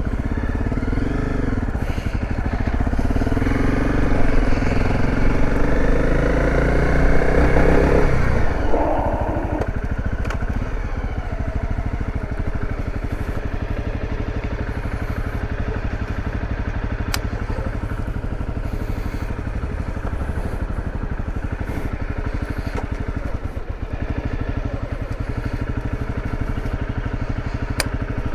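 Dirt bike engine at low speed, its revs rising and falling for the first several seconds, then settling to a steady idle about nine seconds in.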